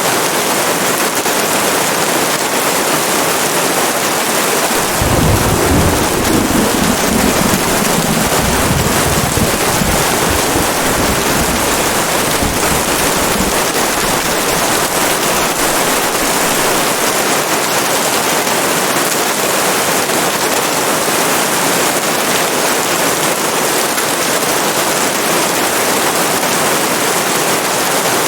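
Steady, even rain hiss, with a low roll of thunder that starts about five seconds in and dies away over several seconds.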